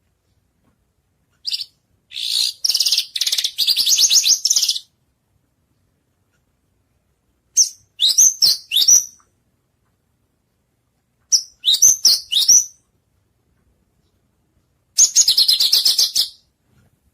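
White-rumped shama (murai batu) song: four short bursts of high, rapid trills and quick down-slurred whistles, separated by silent gaps of a few seconds.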